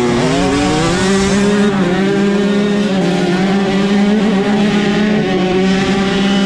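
Dirt bike engine running hard at high revs; its pitch dips briefly at the start as it shifts, then climbs and holds steady.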